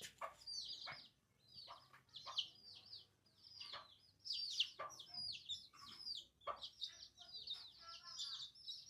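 Chickens calling in the background: many short, high peeps that fall in pitch, repeated irregularly, with a few faint knocks.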